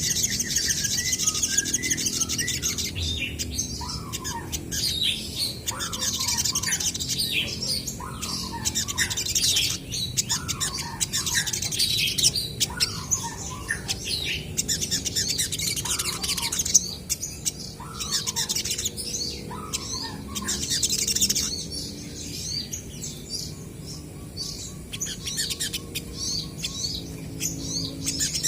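Olive-backed sunbirds calling back and forth in rapid, high-pitched trills and chirps, with a shorter, lower call repeating about once a second through the first two-thirds.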